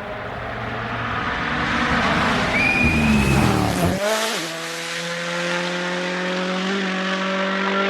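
Rally car engine at full speed, approaching and passing close by about four seconds in with a sharp drop in pitch, then pulling away as its engine note climbs steadily under acceleration. A brief high-pitched squeal comes just before it passes.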